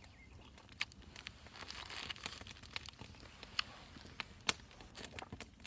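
Plastic zip-top bag crinkling as it is handled, loudest about two seconds in, with a few scattered sharp clicks.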